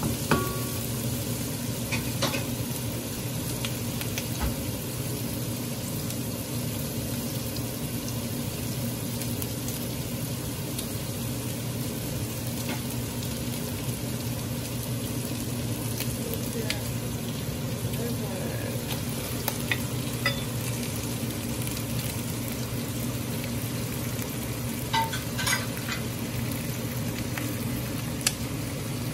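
Diced pork and onions frying in an aluminium pot with a steady sizzle. Scattered clicks and scrapes come from a wooden spoon stirring, over a steady low hum.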